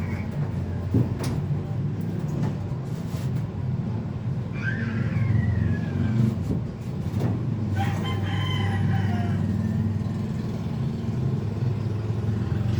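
A rooster crowing twice, each crow drawn out and falling in pitch at the end, over a steady low hum, with a few sharp knocks in the first seconds.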